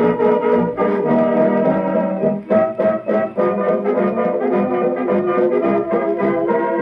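Instrumental passage of a dance-band record: the brass section, trombones and trumpets, plays the tune over the band.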